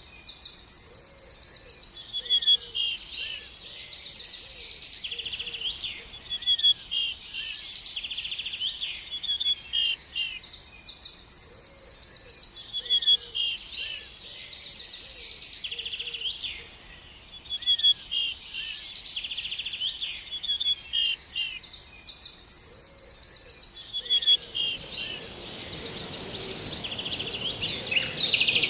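A songbird singing the same phrase over and over, about every eight seconds, with fast buzzy trills and sharp chirps. A steady high hiss joins about three-quarters of the way through.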